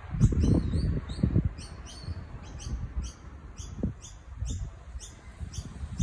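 A bird chirping over and over, about two short high chirps a second, over a low rumble on the microphone that is loudest in the first second and a half.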